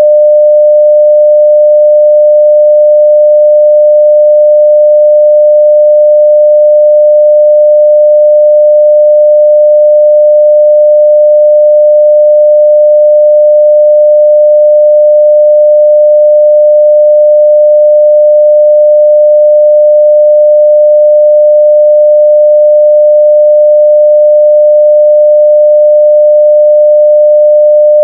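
A 600 Hz sine-wave test tone at full level (0 dB), one pure steady pitch held without a break.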